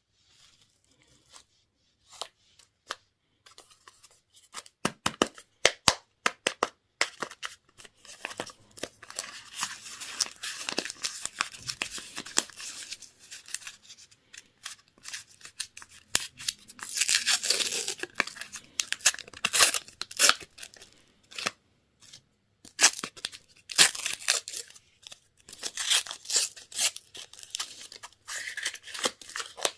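Candy and toy wrappers being torn open and crinkled by hand: scattered sharp crackles and clicks at first, then several longer stretches of tearing and rustling.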